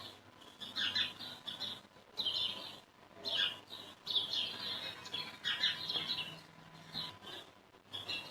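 Birds chirping: short high calls about once a second, over a faint steady hum.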